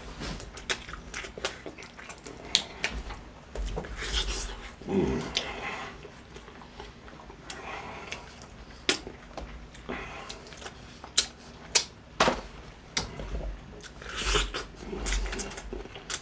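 Biting and chewing of sauced crispy fried chicken: irregular sharp crunches, the loudest a few in quick succession a little after the middle.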